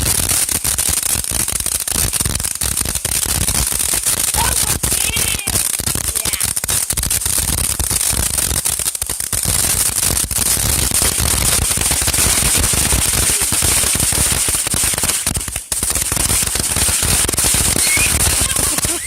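Consumer fireworks crackling in a rapid, dense string of small pops that goes on without let-up, with a brief break about three quarters of the way through.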